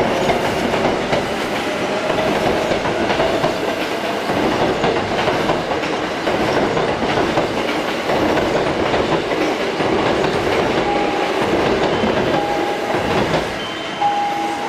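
Hankyu electric train running along the platform, wheels clacking steadily over the rail joints, with a few short steady beeps near the end.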